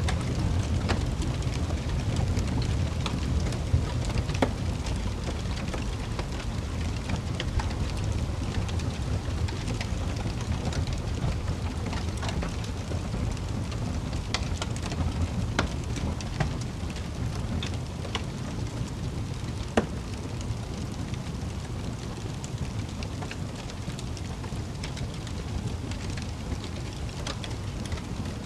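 Wood fire in a fireplace crackling: scattered sharp pops and snaps over a steady low rumble, with one louder pop about two-thirds of the way through.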